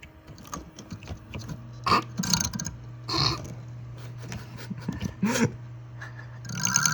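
A desktop PC being powered on for a RAM test: a low steady hum from its fans starts about a second in, with several short, louder noises over it and a loud buzzing near the end.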